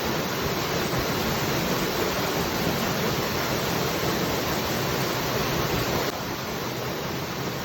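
Waterfall: a steady rush of falling water, dropping slightly in level about six seconds in.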